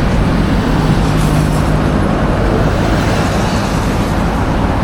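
Loud, steady motorcycle traffic passing close by. One engine's hum stands out for the first couple of seconds.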